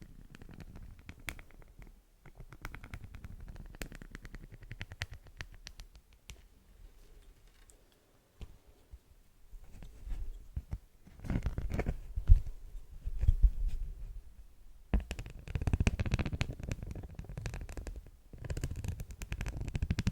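Close-up crinkling and scratching of waxy beeswax wrap, a dense crackle of small clicks. It runs fainter at first, pauses briefly, then comes in louder bouts in the second half.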